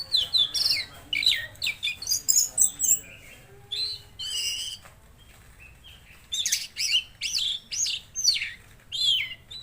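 Tledekan laut songbird singing: rapid runs of sharp, high chirps that mostly sweep downward in pitch, in two busy bursts separated by a short pause with a few longer notes.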